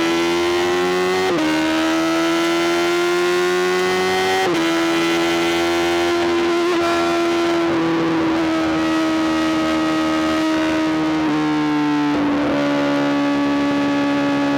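Honda CBR1000RR-R SP inline-four engine through a full Arrow GP exhaust, pulling hard under way: the revs climb and are cut by two quick upshifts, about a second and a half and four and a half seconds in, then the engine holds a steady high note with small changes in pitch.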